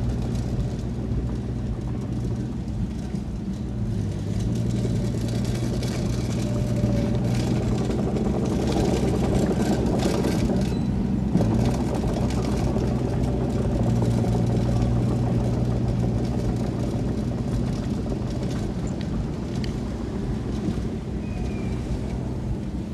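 Diesel engine of heavy earthmoving machinery running steadily under load. Its note dips briefly twice, and a rougher, noisier stretch comes in the middle.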